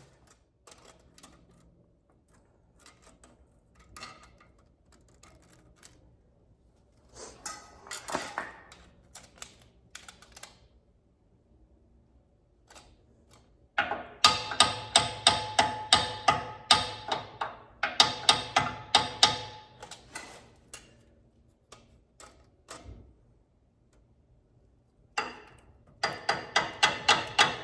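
Runs of rapid, light metallic clicks with a ringing tone, several a second, like a ratcheting hand tool or tapping on steel. A faint run comes near the first third, a loud run lasts about six seconds past the middle, and another starts near the end.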